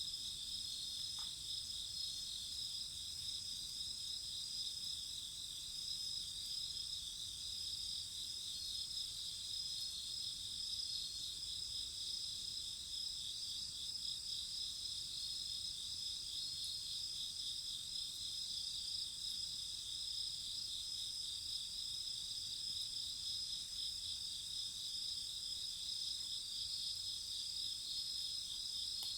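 Chorus of crickets chirping steadily, several high trills overlapping without pause.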